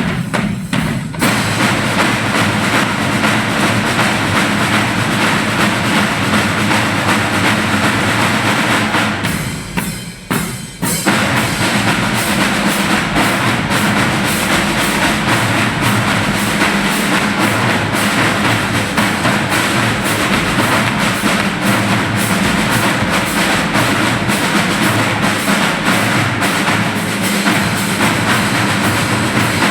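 Loud percussion music built on drums, a steady driving beat with a short lull about ten seconds in before it picks up again.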